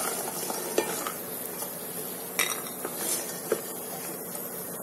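Moong dal badis frying in shallow oil in a granite-coated pot, a steady sizzle, while a wooden spatula stirs and scrapes them and knocks against the pot a few times as they are lifted out of the oil.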